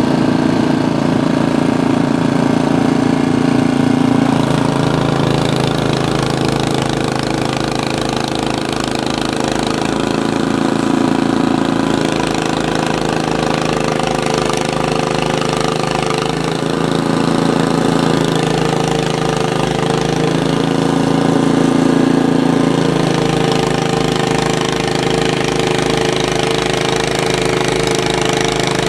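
Small petrol engine of a snowblower running steadily with a fast low chug. Its sound swells and eases about every five or six seconds, as the machine takes on snow and clears.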